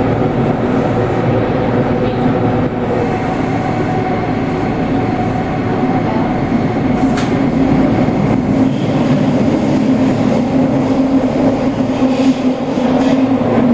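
Toei Oedo Line 12-600 series linear-motor subway train running at speed through the tunnel: a loud, steady rumble with a low droning tone. Some higher hiss comes in near the end.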